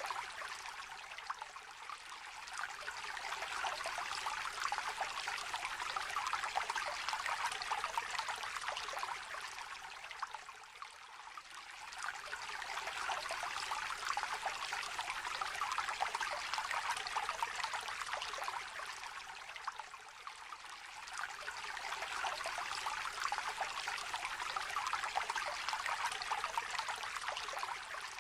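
Shallow river gently trickling and babbling over stones. The flow sound swells and eases in slow waves, dipping about every nine seconds.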